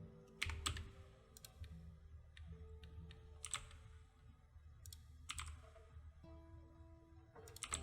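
Scattered computer keyboard keystrokes, sharp separate clicks a second or so apart, over faint background music with soft held notes.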